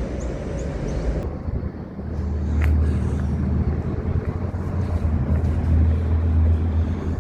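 Low, steady rumble of road traffic, growing louder about two seconds in.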